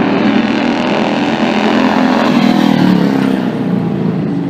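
Classic racing car's engine running hard at high revs, its pitch shifting up and down as it accelerates along the hill-climb course.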